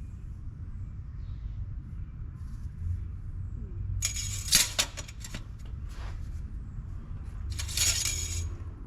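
Metal pieces clinking together in two bursts, one about four seconds in and another near the end, over a steady low rumble.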